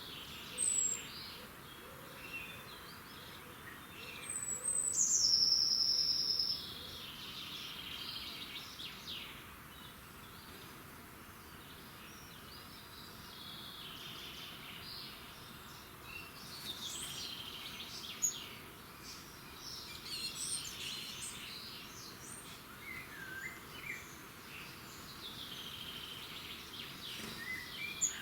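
Dawn chorus of several songbirds chirping and singing over a steady background hiss. About four seconds in, one bird gives a loud, high whistled note that slides down and is held for about two seconds.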